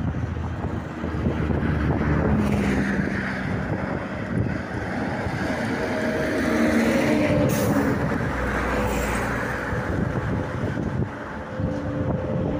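Adtranz class 220 diesel-electric locomotive running during shunting, its engine a steady low drone with tones that shift up and down in pitch, and two brief hisses about two thirds of the way through.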